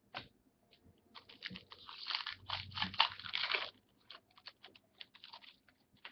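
Trading card packaging crinkling and crackling as it is handled, dense for a couple of seconds about a second in, with light clicks and rustles of cards being handled before and after.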